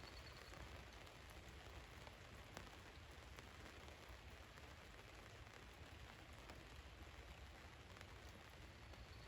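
Rain falling on a van's roof: a faint steady hiss with scattered single drops ticking.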